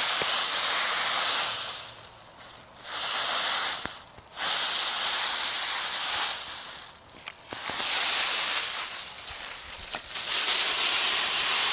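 Loud hissing noise in about five bursts, each lasting one to two seconds, with short quieter gaps between them.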